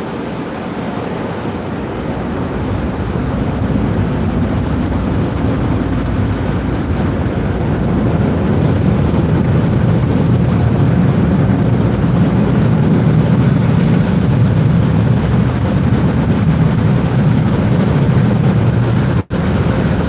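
Steady rushing noise of an automatic car wash, heard from inside the car's cabin, growing louder over the first several seconds and then holding.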